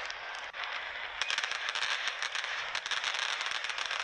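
Aerial fireworks crackling in a fast, dense run of small pops, which thickens from about a second in.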